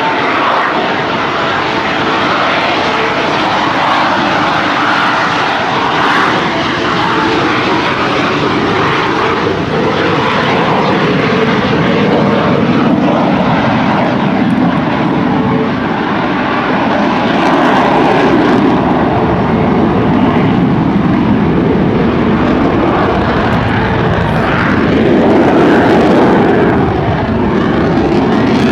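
Jet noise from Blue Angels F/A-18 Hornets flying their display, a continuous rushing engine sound that swells and fades as the jets pass and is loudest near the end.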